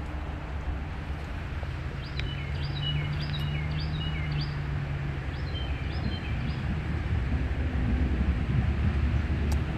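Wind rumbling on the microphone, with a bird calling in quick groups of short chirping notes, twice. A steady low hum joins about two seconds in and fades out about five seconds in.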